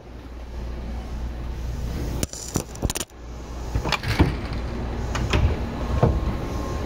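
Seibu 2000 series commuter train running, a steady low rumble heard from inside the car. Over it come scattered clattering clicks and knocks, loudest about four seconds in.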